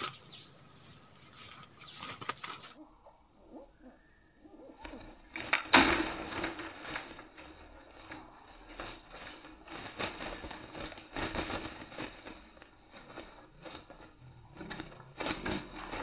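Bulbuls fighting through a wire trap cage: wings flapping and bodies knocking against the wire in a string of short clicks and flutters, loudest about six seconds in.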